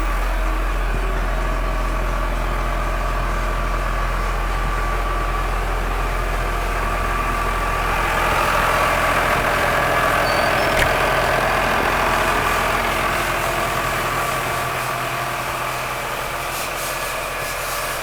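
Massey Ferguson 6490 tractor's six-cylinder diesel engine running steadily, growing louder for a few seconds around the middle, with one sharp click about eleven seconds in.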